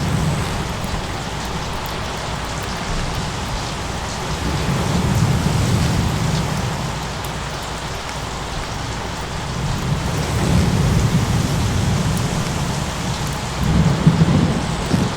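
Steady heavy rain with deep rumbles of thunder swelling and fading every few seconds, the strongest near the end. Faint crackling ticks of a fire run underneath.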